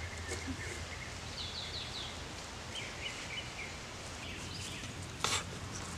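Outdoor ambience with birds calling: a quick run of high chirps about a second and a half in and another chirping phrase about three seconds in. A single short knock about five seconds in.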